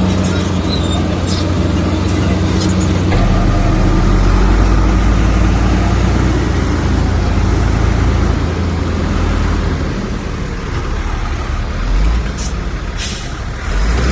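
Heavy diesel engine of earthmoving machinery running steadily. Its low note changes about three seconds in and eases around ten seconds, with a few sharp clanks near the end.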